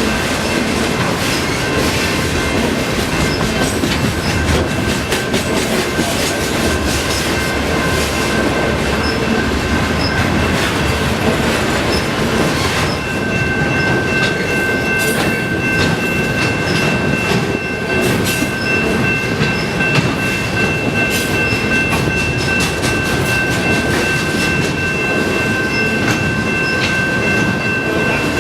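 Railway cars rolling past at close range, steel wheels clicking over the rail joints. About halfway through, a steady high squeal from the wheels sets in and holds.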